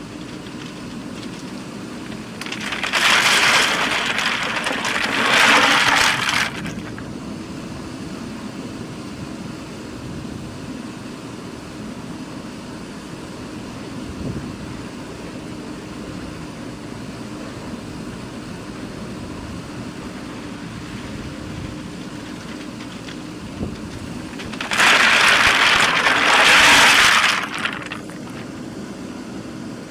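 JCB 3DX Super backhoe loader's diesel engine running steadily. Two loud rushing noises break in, one about three seconds in lasting some three seconds and another of similar length near the end.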